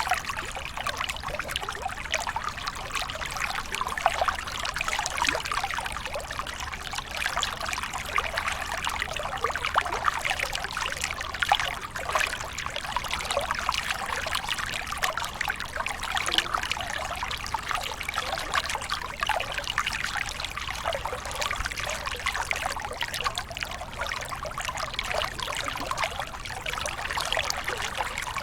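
Small waterfall: water pouring and splashing steadily, a continuous rush full of small splashes.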